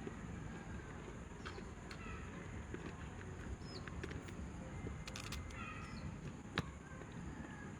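Faint background sounds: a few short animal calls and occasional sharp clicks over a steady low rumble, the loudest click about two-thirds of the way in.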